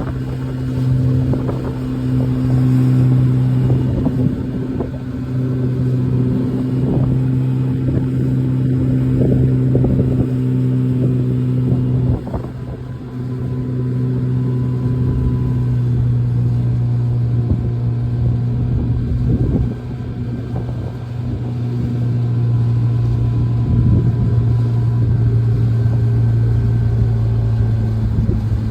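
Boat engine running steadily at one pitch, with wind buffeting the microphone; the engine note drops briefly about twelve seconds in and again near twenty seconds.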